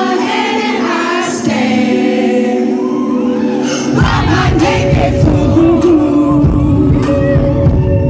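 Live indie-pop band playing, heard through a concert-hall recording: a singer's voice over held keyboard chords, and about four seconds in the bass and drums come in and the music gets louder.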